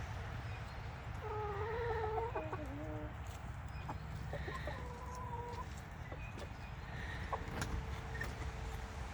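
Chickens clucking, with wavering, drawn-out calls at about one to three seconds in and again at about four to five and a half seconds in, and a few sharp taps in between.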